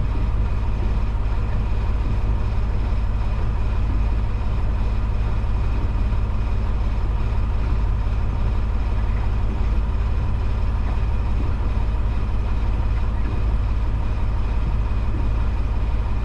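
Semi truck's diesel engine running with an even, steady low drone and a faint constant whine above it.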